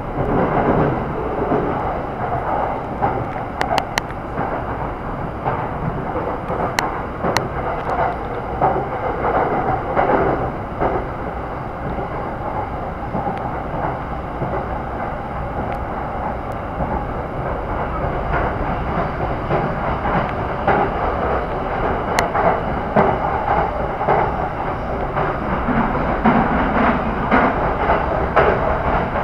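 Electric commuter train running at speed, heard from inside the car: a steady rolling rumble of steel wheels on the rails, with a few sharp clicks as the wheels pass over rail joints.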